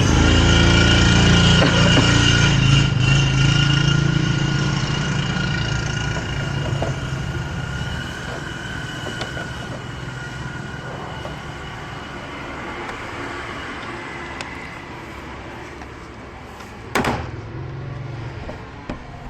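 A motor vehicle's engine running, loud at first and then fading slowly over about ten seconds as it moves away, with one sharp knock near the end.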